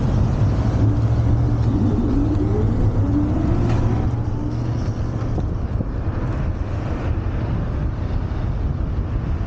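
Riding noise from a Wolf Warrior 11+ electric scooter under way: a steady low rumble of wind and road, with a faint rising whine in the first few seconds.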